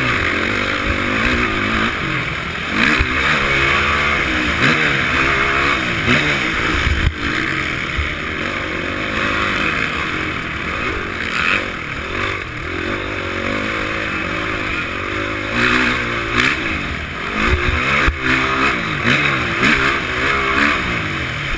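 Honda CRF450 motocross bike's single-cylinder four-stroke engine being ridden, its pitch rising and falling again and again as the throttle is opened and shut, heard through a helmet-mounted camera with a steady rushing noise over it.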